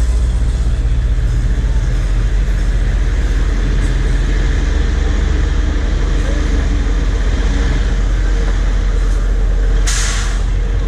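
Heavy work truck's diesel engine running steadily, with a short burst of air hiss near the end.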